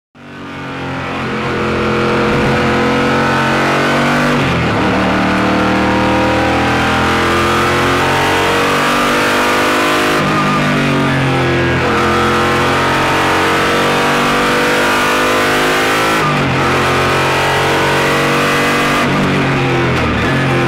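Onboard sound of the Koenigsegg CCGT racing car's V8 engine at speed on track. The engine note climbs and drops with gear changes and throttle about four times, about 4, 10, 16 and 20 seconds in. It fades up over the first second or two.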